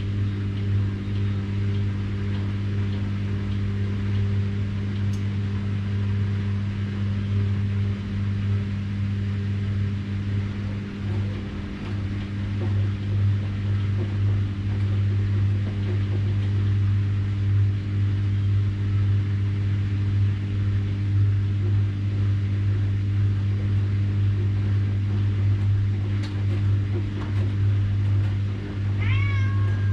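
Washing machine running with a steady low motor hum. A short high squeak sliding in pitch comes near the end.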